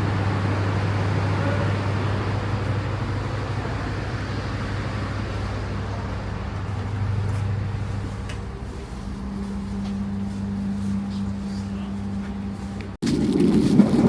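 Steady low machine hum of a standing passenger train, with a second, higher hum joining about nine seconds in. The sound cuts out abruptly about thirteen seconds in, and louder, busier sound follows.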